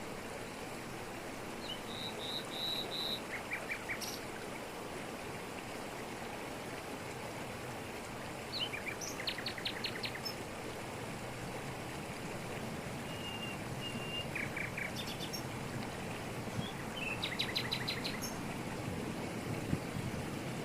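Steady rush of a waterfall pouring over rocks, with birds calling over it: several short runs of quick high chirps and a few brief whistled notes.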